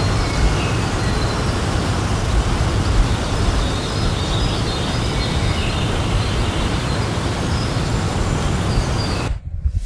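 Loud, steady outdoor ambience: a rumbling, hissing wash of noise with short faint chirps now and then. It cuts off abruptly near the end.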